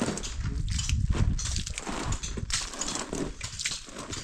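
Irregular scraping and rubbing noises with light knocks.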